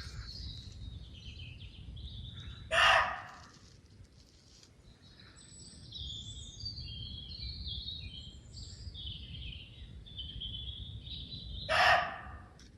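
Woodland birds singing and chirping, with two loud, harsh calls about nine seconds apart: one a few seconds in and one near the end.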